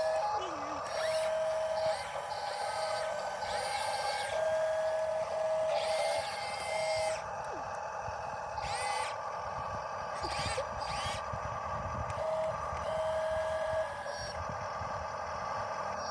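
Small electric motors and gearboxes of RC construction models whining, starting and stopping every second or so as the machines move.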